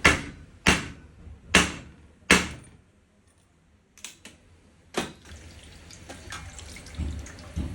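Common-rail diesel injector spraying fuel in four short, sharp hissing bursts about a second apart, each fading quickly, as it is fired on a test bench. Fainter clicks and a couple of dull knocks follow.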